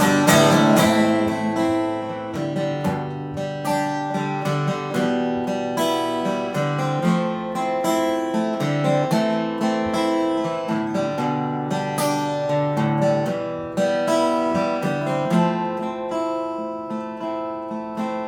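Solo acoustic guitar played as an instrumental passage, plucked and strummed chords ringing one after another, with no singing.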